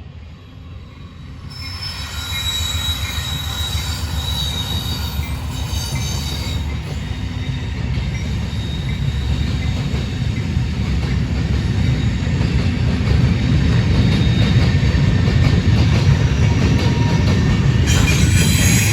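Norfolk Southern manifest freight train rolling by, a heavy steady rumble of wheels on rail growing louder, with thin high squealing tones from the wheels over it.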